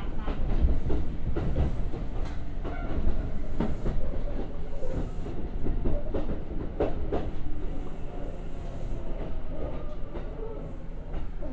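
Kintetsu 1021 series electric train heard from inside the carriage while running, with a steady low rumble and irregular sharp clicks of the wheels over rail joints. The sound eases slightly towards the end.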